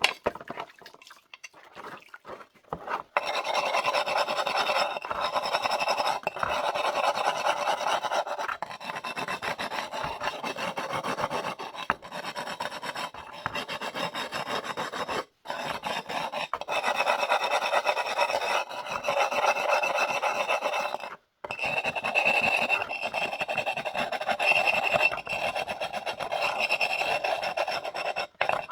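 Hand abrasive scratching across unglazed wood-fired stoneware as the piece is dressed and smoothed. It starts with a few light knocks of handling, then scratches continuously from about three seconds in. The scratching cuts out abruptly twice and takes on a thin high whine over the last several seconds.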